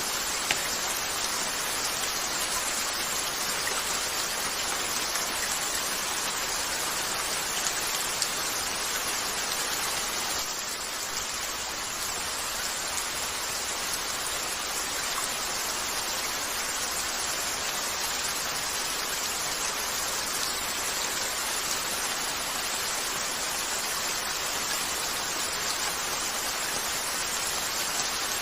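Steady rain falling on a window, an even hiss with a few sharp ticks, easing slightly about ten seconds in.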